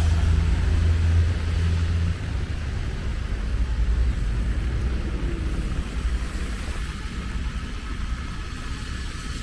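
Road traffic rumble, with a steady low engine hum that cuts off about two seconds in.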